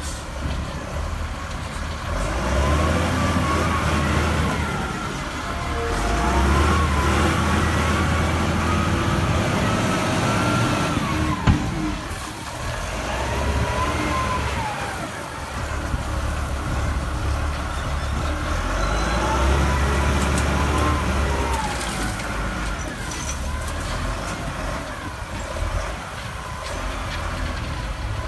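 A wheel loader's diesel engine revs up and eases off over and over as it works loading coal, with a whine that climbs and falls with each rev. There is a single sharp knock about eleven seconds in.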